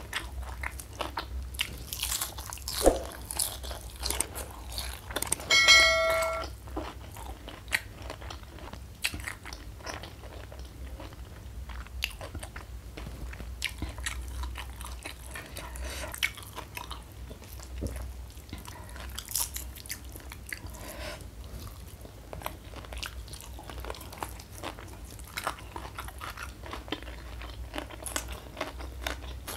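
Close-up eating sounds: crunching and chewing of crispy fried mushroom coated in sambal, with many small crisp crackles. Near the end a raw green vegetable is bitten. About six seconds in there is a short ringing clink, the loudest moment.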